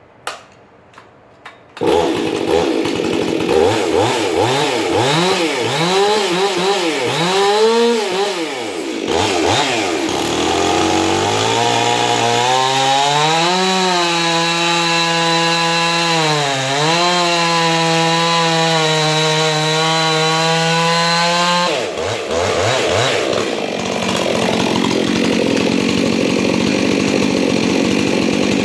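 Exhaust-ported Stihl MS 362 chainsaw starting up after a few clicks, revved in short throttle blips, then held at high revs for about ten seconds with one brief dip. About 22 seconds in the steady engine tone gives way to a rougher, noisier sound.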